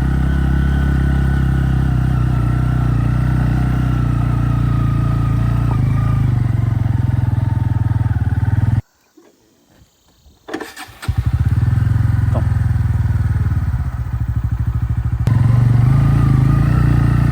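Bajaj Pulsar N160's single-cylinder engine running steadily under a moving rider. The sound cuts out abruptly for about two seconds a little past halfway, then the engine comes back.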